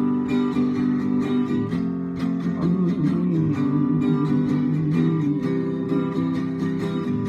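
Acoustic guitar strumming chords in a steady rhythm, with no vocal.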